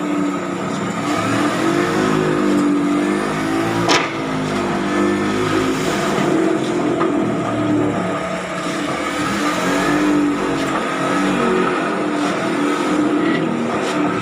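Diesel engine of a pile-driving rig running, its engine speed rising and falling under load, with a single sharp knock about four seconds in.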